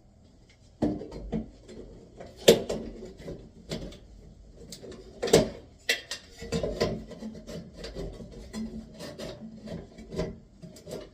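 Bathroom exhaust fan assembly being worked loose from its ceiling mounting: a few sharp knocks, the loudest about two and a half and five seconds in, then continuous rubbing and scraping with small clicks.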